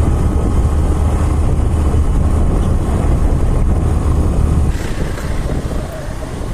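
Motorcycle on the move: a steady mix of engine noise and heavy wind rumble on the microphone. The deep rumble drops away about three quarters of the way through and the sound gets somewhat quieter.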